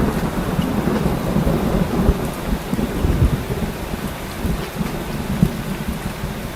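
Rain falling steadily with a long, low rumble of thunder that slowly fades toward the end.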